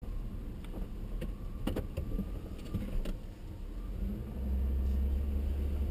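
Car heard from inside its cabin, engine running low and steady with a few light clicks; about four seconds in its low hum grows louder and stays up as the car pulls away.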